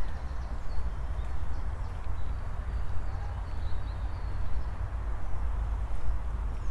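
Footsteps walking at an even pace on an outdoor path, about one step every three-quarters of a second, over a steady low rumble, with a few faint bird chirps.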